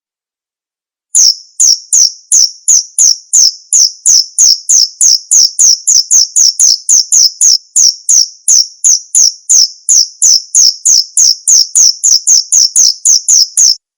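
Male cricket chirping steadily, about three short high chirps a second. It starts about a second in and stops abruptly near the end.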